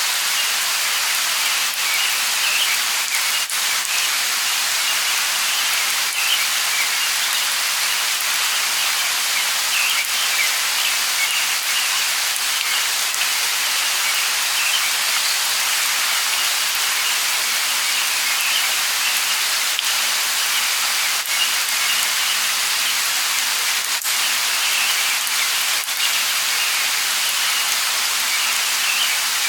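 Light rain falling steadily, a constant hiss with a few separate drops ticking, and faint bird chirps scattered through it.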